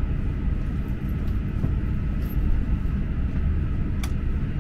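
Steady low rumble inside an E6-series Komachi Shinkansen car as the train pulls into the platform, with one short click about four seconds in.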